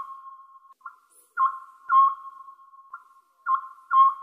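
Electronic, sonar-like pings over a steady held tone, coming in pairs about every two seconds: background music or a sound effect.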